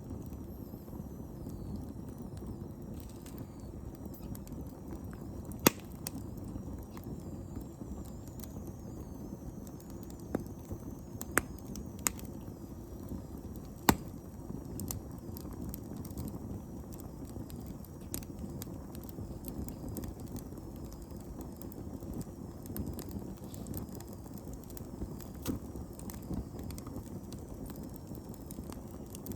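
Wood bonfire burning with a low, steady rustle, broken by scattered sharp crackles and pops, the loudest about six and fourteen seconds in.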